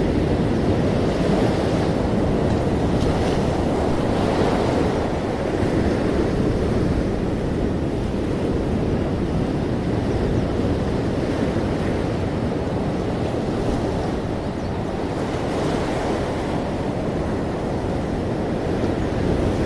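Ocean waves washing onto shore in a continuous rumble, with a few gentle surges of surf hiss.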